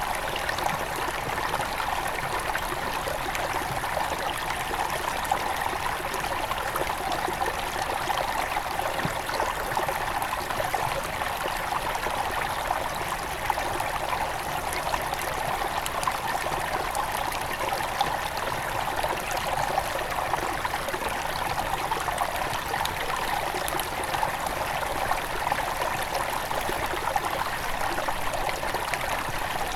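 Small headwater river flowing steadily over stones, a continuous babbling and trickling rush.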